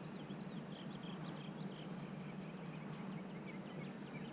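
Faint bird chirps, many short high calls scattered throughout, over a steady low hum.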